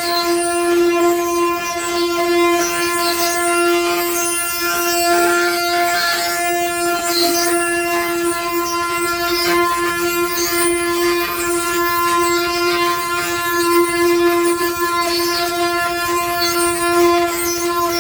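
Ox cart 'singing': the wooden axle turning in its wooden bearings gives a steady, high, droning whine with a stack of overtones, the sign of a loaded cart rolling.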